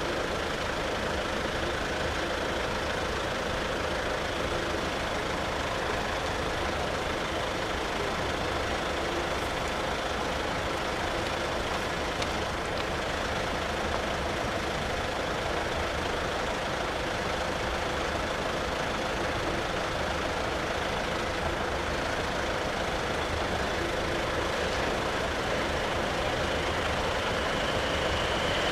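Steady hum of road vehicles idling while held at the level crossing barriers. Near the end the noise swells and a high steady tone comes in as the train approaches.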